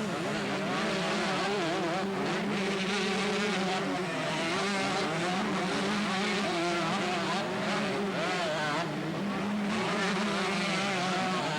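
Several two-stroke motocross bikes racing together, their engines revving up and down over each other in a continuous din.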